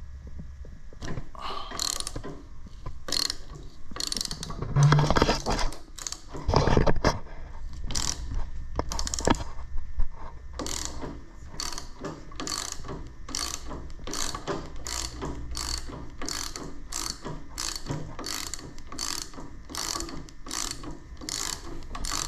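Socket ratchet clicking as it turns out the steering-wheel retaining bolt. Uneven strokes and a few heavier knocks in the first half, then a steady rhythm of about two strokes a second.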